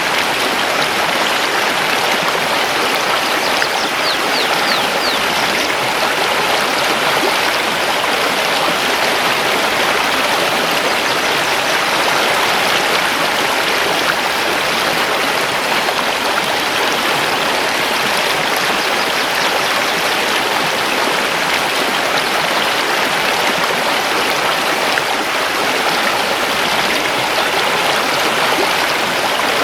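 Mountain river rushing steadily over stones, with a few faint high bird chirps about four seconds in.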